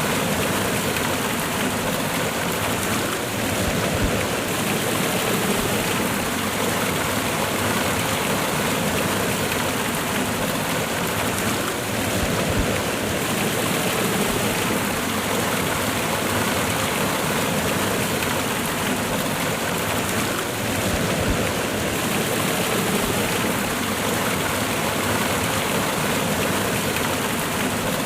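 Waterfall cascade: water pouring and splashing in a steady, even rush.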